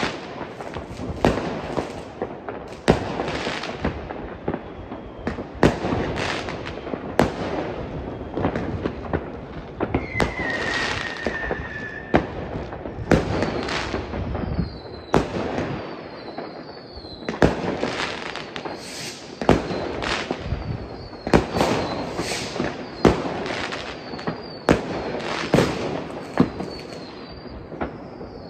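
Fireworks and firecrackers banging one after another, at irregular intervals, over a constant background crackle from many launches across a town. About ten seconds in, one whistling firework sounds for about two seconds, its pitch falling slightly.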